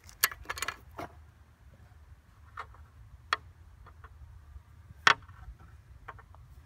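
Scattered light clicks and knocks of hard objects being handled, about a second or two apart, with one sharper knock about five seconds in.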